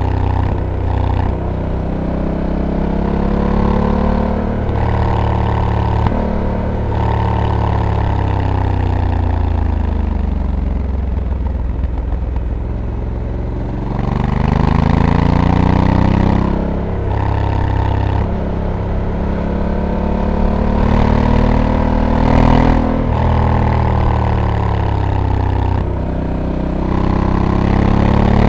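Honda Africa Twin DCT's 1084 cc parallel-twin engine pulling through corners, its pitch climbing under throttle and then dropping sharply at each automatic dual-clutch gear change. Midway it runs down slowly on a closed throttle before pulling up again.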